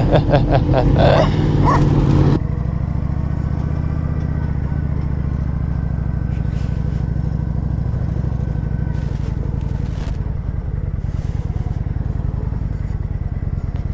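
Motorcycle engine idling steadily with a low, even rumble. A louder voice-like sound comes over it for the first two seconds or so.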